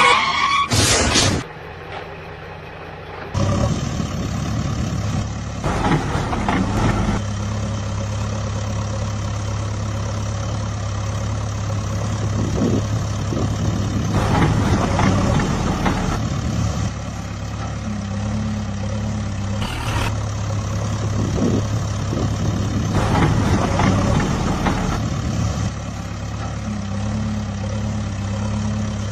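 A heavy vehicle engine running steadily, starting about three seconds in and growing louder and rougher a few times, like a tractor or backhoe loader working. A short burst of noise comes right at the start.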